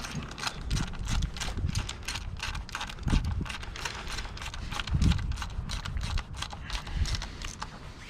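Socket ratchet clicking steadily, about four to five clicks a second, as bolts are turned, over low wind rumble on the microphone.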